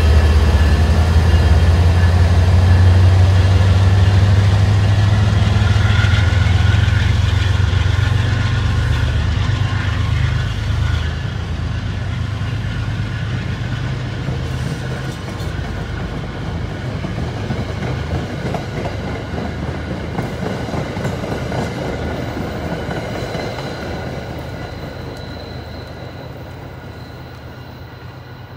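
MBTA commuter train passing: a diesel locomotive's engine rumbling close by at first, then the passenger coaches rolling past with wheels clacking on the rails. The sound fades steadily as the train pulls away, with a steady high ringing underneath that fits a grade-crossing bell.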